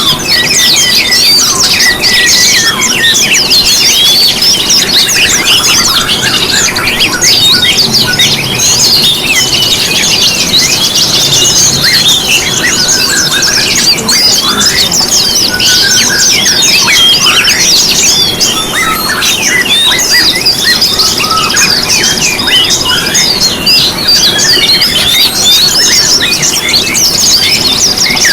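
Dense chorus of many small songbirds chirping, whistling and trilling over one another without a break, a layered mix of several species' songs, with a long high trill about two-thirds of the way through.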